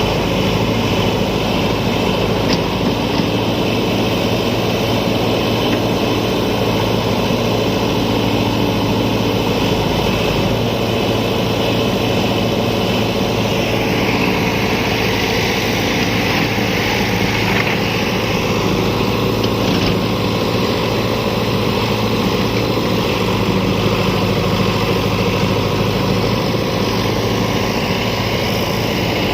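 Tractor diesel engine running steadily, its sound brightening a little about halfway through.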